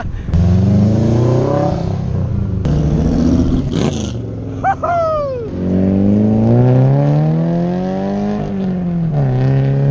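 Loud car engines revving and accelerating away, with a blue Cobra-style roadster on its side exhausts in the later part: the engine's pitch climbs steadily for about three seconds, then drops and settles near the end. A short shout cuts in about five seconds in.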